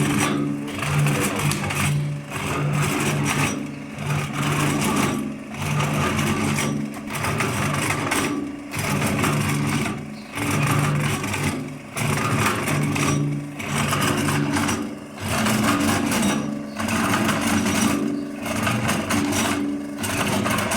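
Metal machining tool cutting down MIG weld build-up on an excavator stick arm, with a steady motor hum under the cutting noise. The cutting noise swells and drops in a regular cycle about every 1.7 seconds, over and over.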